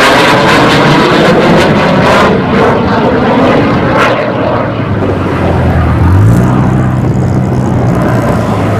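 Northrop F-5 Tiger III fighter jet and its twin J85 turbojets, loud, with the pitch sweeping down at the start as the jet passes, then a steady rumble as it moves away.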